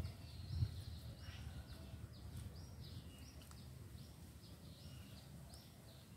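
A bird calling over and over, short high notes that dip in pitch, about two a second, over a low rumble, with one soft knock about half a second in.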